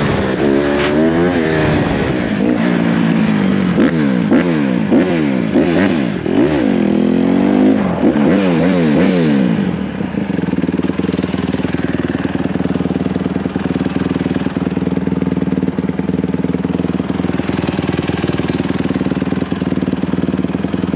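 Motorcycle engine revved up and down over and over for about ten seconds, then running at a steady pitch.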